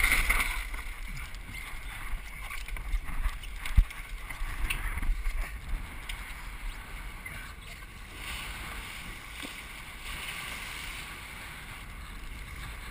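Water rushing along a Melges 24 sailboat's hull under sail, with wind buffeting the microphone and a few knocks from the boat, the sharpest about four seconds in.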